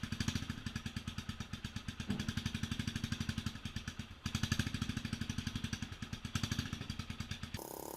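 Herald Classic 250 motorcycle's single-cylinder engine running at a fast idle through its freshly heat-wrapped exhaust, with quick even pulses and the revs picking up about four seconds in. Music comes in just before the end.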